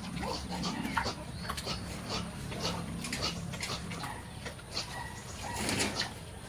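Pigs making short, irregular noises, with one louder, noisier sound about five and a half seconds in.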